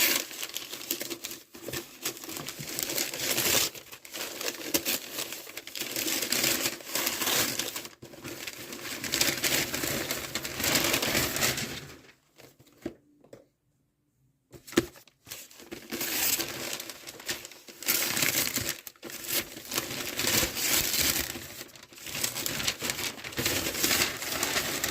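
Packing wrap crinkling and crumpling as wrapped boxes are unpacked from a shipping carton, in long stretches with a short lull about halfway through.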